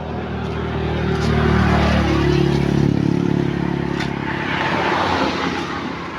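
A large truck engine running close by. It swells louder and shifts in pitch about two seconds in, then swells again near five seconds.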